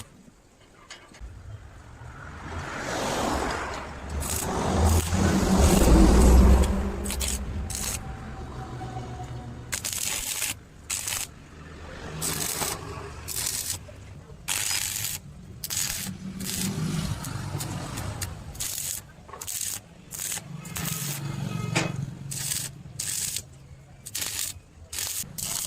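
Metalworking in a welding workshop: a swelling rumble that peaks a few seconds in, then a long run of short, sharp bursts of noise, each under a second and roughly a second apart.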